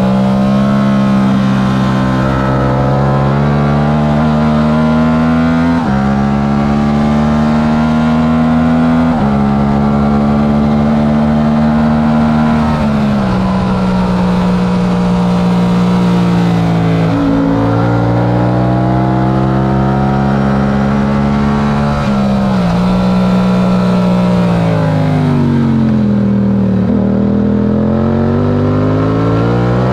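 Yamaha R7's 689 cc parallel-twin engine at racing speed, revving hard and pulling up through the gears, with a sudden drop in pitch at each shift. Near the end the revs fall away as it slows for a corner, then climb again as it accelerates out.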